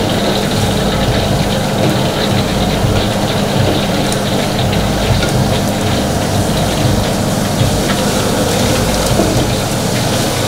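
Food frying in a hot pan, a steady sizzle, over a constant low hum of kitchen equipment.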